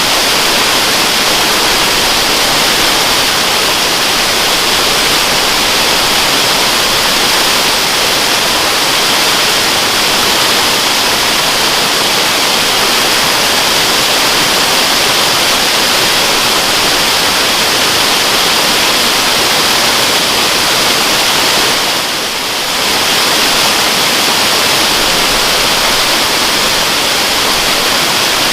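Waterfall: a steady, even rush of falling water, dipping briefly in level about 22 seconds in.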